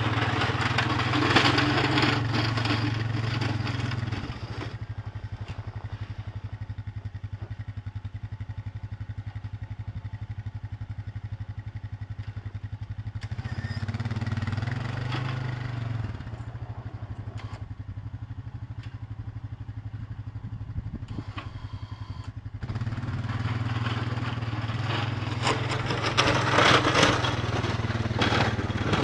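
A small engine running steadily with a fast, even beat. Three times it swells into louder stretches of rushing, grinding noise: near the start, about halfway through and for the last six seconds.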